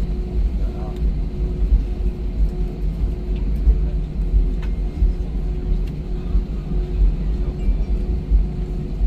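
Airliner cabin noise while the plane taxis after landing: a steady low rumble with a constant hum.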